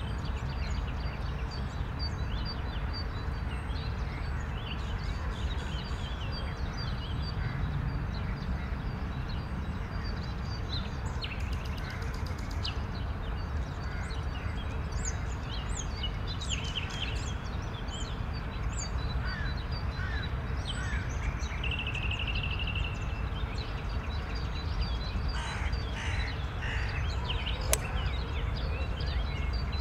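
Outdoor ambience: assorted birds calling and chirping, with a short trill about 22 seconds in, over a steady low background rumble.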